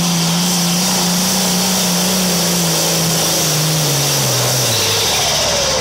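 Pulling vehicle's engine running loud at full throttle during a pull, a steady, heavy engine note whose pitch falls near the end.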